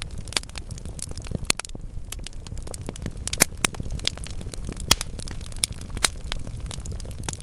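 Wood logs burning in a fireplace: a steady low rumble of flames with frequent sharp crackles and pops, the loudest pops coming about three and a half, five and six seconds in.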